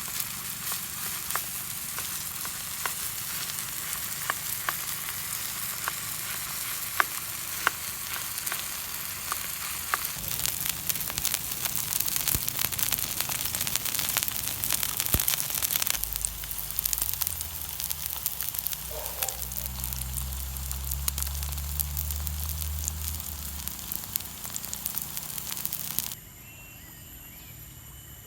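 Food frying in a hot pan, a steady sizzle with scattered sharp crackles. Near the end the sizzle cuts off, leaving faint steady insect chirring.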